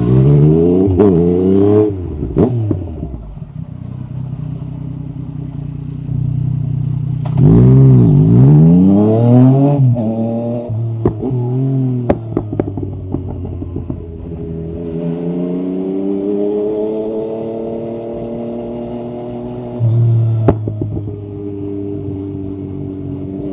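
Yamaha MT-09 SP's three-cylinder engine through an Akrapovic carbon exhaust with the dB killer out, revving hard through quick upshifts twice, with a few sharp cracks from the exhaust, then pulling steadily with the revs slowly climbing.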